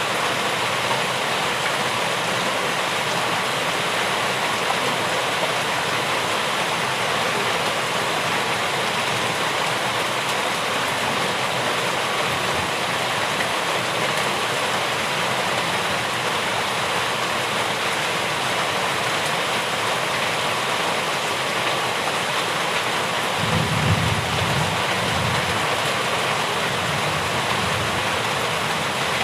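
Steady heavy rainfall, an even hiss of falling rain. A low rumble swells in about twenty-three seconds in and fades a few seconds later.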